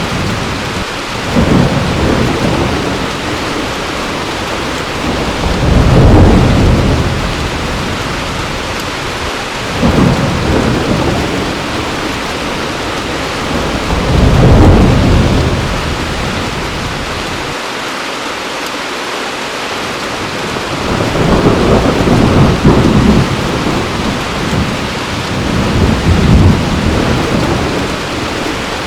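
Heavy rain falling steadily, with thunder rumbling several times, the longest roll about three-quarters of the way through.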